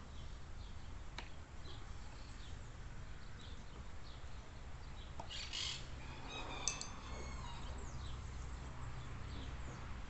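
Birds chirping with many short, scattered calls, and a louder, harsher squawking call about six seconds in, over a low steady hum.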